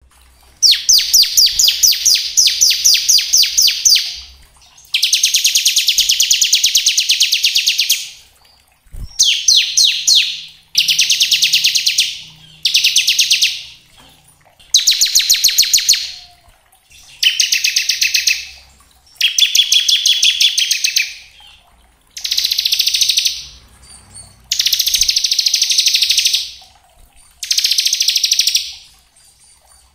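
Bar-winged prinia (ciblek) singing its rapid buzzing 'ngebren' trill, high-pitched and loud, in about eleven bursts of one to three seconds each with short pauses between them.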